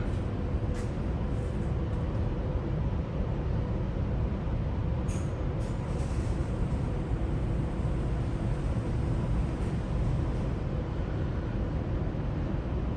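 Steady low rumble and hum of laundry machines running, with a few faint clicks about five to six seconds in.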